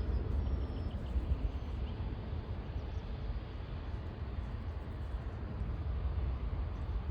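Steady low rumble of an Airbus A350's Rolls-Royce Trent XWB jet engines, heard outdoors at a distance.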